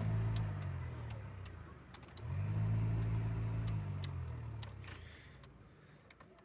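Heater blower motor of a 2012 Renault Kangoo humming as it spins up and winds down twice. This is the blower noise the owner is trying to trace.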